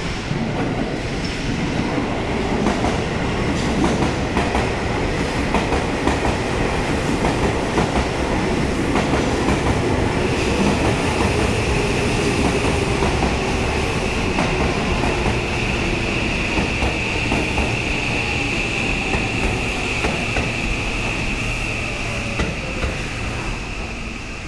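Seibu 6000-series electric commuter train running into a station over the points, its wheels clattering over the rail joints. From about ten seconds in a steady high squeal rises over the rumble as the train slows alongside the platform.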